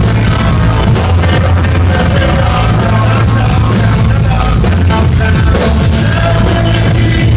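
Live band playing loud with heavy bass and a steady beat, recorded from the crowd.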